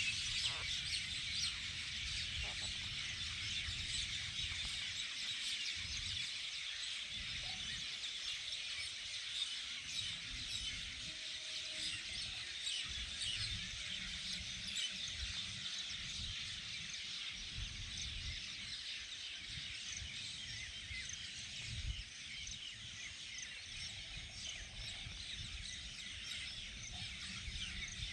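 Many birds chirping together in a dense, continuous chorus, with a low rumble of wind on the microphone that comes and goes.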